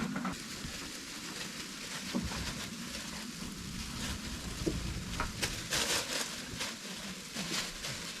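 Light rain pattering steadily, with scattered drop ticks and a few louder patters about two thirds of the way in.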